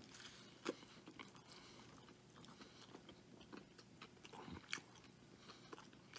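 Faint, close-up chewing of a mouthful of bacon cheeseburger: soft, wet mouth clicks and smacks, with two sharper clicks, one about a second in and one near the five-second mark.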